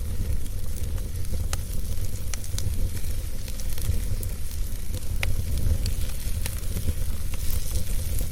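Wood fire burning with a steady low rumble of flame, a soft hiss and scattered sharp crackles and pops from the burning wood.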